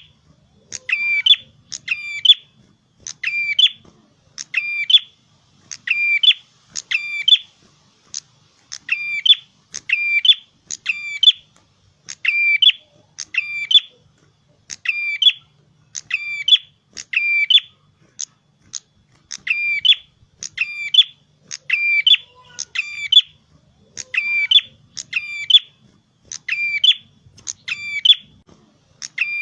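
A prenjak kepala merah singing in full voice: the same short phrase of two or three quick high notes repeated over and over, about once a second.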